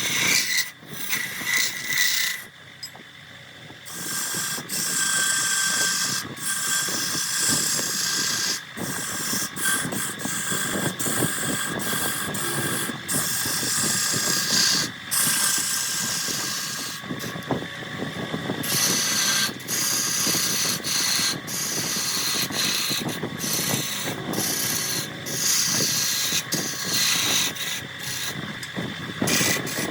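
A wood lathe spinning a jackfruit log while a turning tool cuts it: a steady hiss of cutting with many short breaks and clicks. The cutting lets up briefly about three seconds in.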